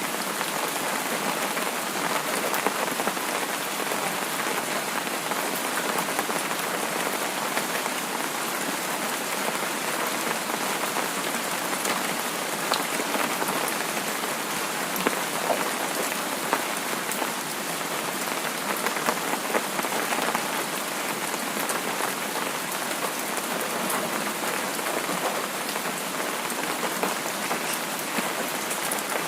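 Steady rain falling on a surface, a continuous hiss with many small scattered drop patters.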